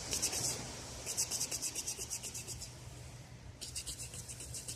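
Insect chirping, cricket-like: rapid trains of high-pitched pulses, about ten a second, that start and stop in bursts over a low steady background rumble.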